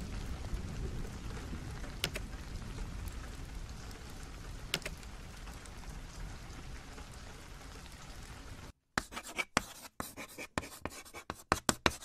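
Steady rain ambience, slowly fading, with two faint clicks. About nine seconds in it cuts off abruptly and a quick run of irregular scratching strokes follows, like chalk or pencil scribbling.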